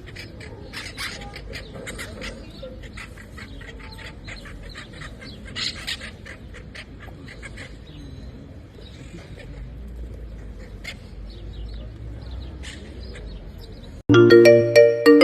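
A pet parrot chattering, with many quick clicks and short squawky calls. About 14 seconds in, loud tinkling mallet-percussion music starts abruptly.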